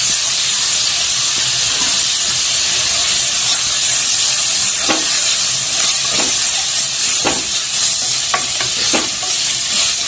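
Chopped onions and ginger-garlic paste sizzling in hot oil in a kadai, a steady hiss, while a wooden spatula stirs them, scraping against the pan a few times in the second half.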